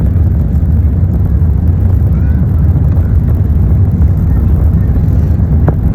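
Airbus A380 airliner landing: a steady, loud low rumble that holds without clear change, with a brief sharper sound near the end.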